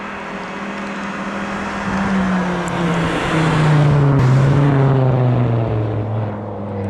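Hill-climb race car approaching and passing, its engine note stepping down in pitch as it comes by and is loudest about four seconds in, over a steady hiss of tyres on the wet road.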